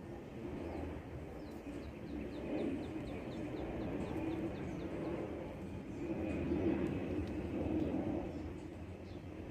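Birds calling, with a quick run of short, high chirps about one and a half seconds in, over a low steady background hum.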